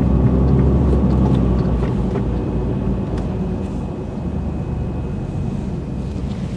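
A truck's diesel engine running with a steady low drone, easing a little about two seconds in.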